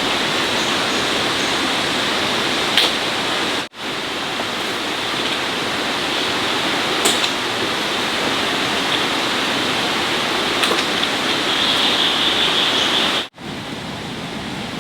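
Steady rushing of flowing water, cut off abruptly for an instant twice, nearly four seconds in and just over thirteen seconds in.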